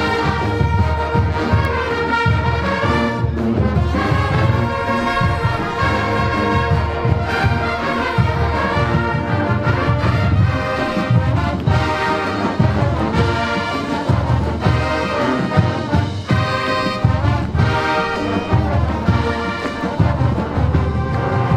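Marching band playing at full volume: brass section holding and moving through chords over steady drumline beats.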